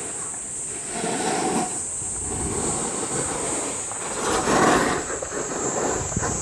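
Rushing wind on the microphone with the rough scrape of a board sliding down the slope, swelling into louder scrapes about a second in and again past the four-second mark.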